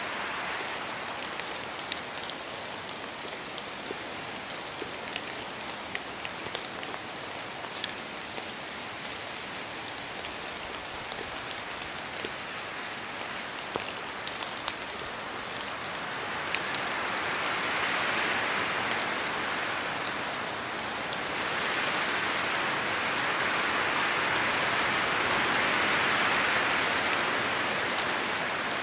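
Steady rain falling on leaves and surfaces, with many small individual drop ticks. Twice in the second half the rush swells louder for several seconds, like gusts of wind or heavier rain.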